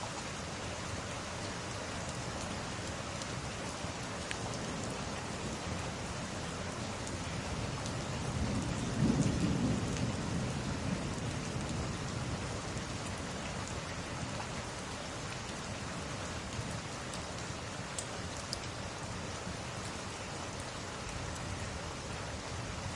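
Steady rain with a low rumble of thunder that swells and fades about nine seconds in, and a few faint crackles from a log fire.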